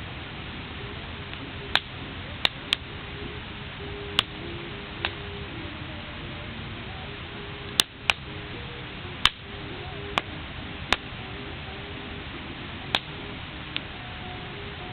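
Wood fire crackling, with a dozen or so sharp, irregular pops from the burning logs over a steady low rush.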